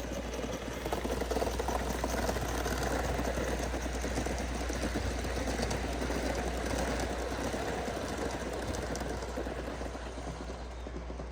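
A gauge 1 live-steam model locomotive running, with fast, rapid chuffing exhaust beats and wheel clatter, growing louder in the first couple of seconds and then slowly fading, over a low wind rumble on the microphone.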